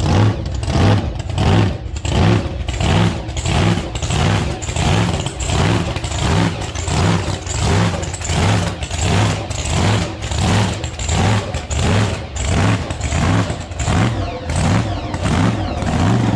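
3000 hp Camaro burnout car's engine idling with a heavy, rhythmic lope, its level swelling and falling a little more than once a second.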